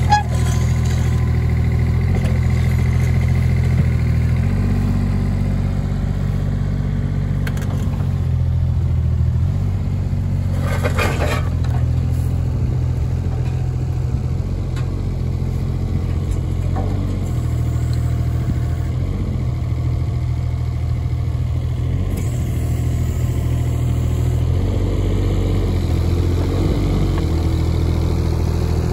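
Schaeff-Terex AM 16R excavator engine running steadily, its speed stepping up and down several times. A brief burst of hiss comes about eleven seconds in.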